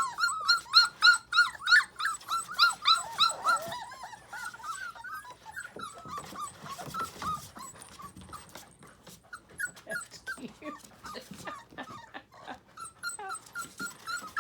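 Goldendoodle puppies whining in short, high cries, about three a second and loudest in the first few seconds, then softer and more scattered.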